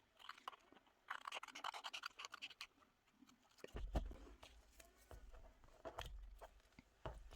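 Faint scratching and rustling of paper being handled and worked at a craft table, followed by a few light clicks and dull knocks on the tabletop.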